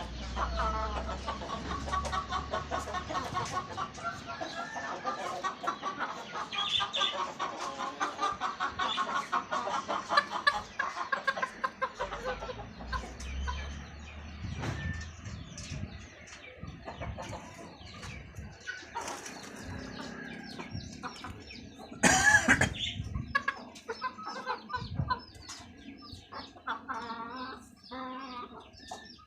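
Chickens clucking in a run of short repeated calls, busiest in the first half. About three-quarters of the way through comes one brief loud burst.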